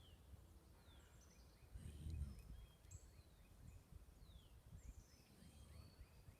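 Faint birdsong: several short down-slurred whistles and runs of quick chirps over quiet outdoor background noise, with a brief low rumble about two seconds in.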